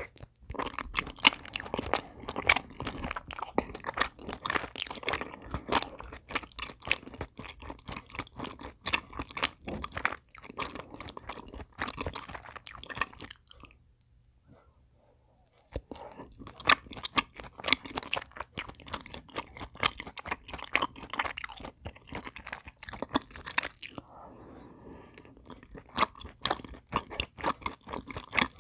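Close-miked chewing of glazed rice cakes from a black-sugar tteok skewer: a dense run of clicking mouth sounds. About halfway through they stop for about two seconds, then the chewing resumes.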